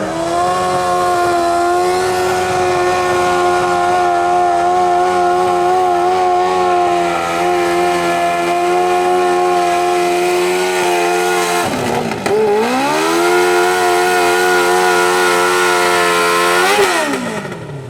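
Modified pulling lawn tractor's 1000 cc Kawasaki motorcycle engine held at high revs under load. About twelve seconds in the revs dip sharply and climb back. Near the end they fall away as the throttle comes off at the end of the pull.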